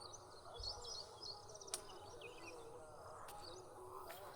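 Faint outdoor ambience of insects buzzing and birds chirping, with a couple of light clicks.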